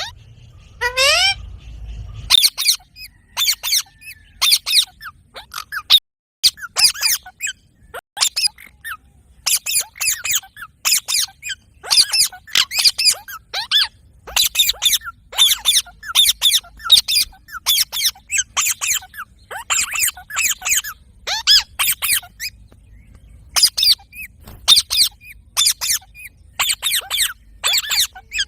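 Pet parrot making runs of short, high squeaky chirps in quick succession, with one rising whistle about a second in.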